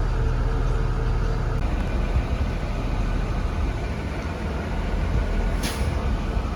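A 2017 Blue Bird Vision school bus heard from inside the cabin while under way: a steady engine and road rumble, with a brief hiss about five and a half seconds in.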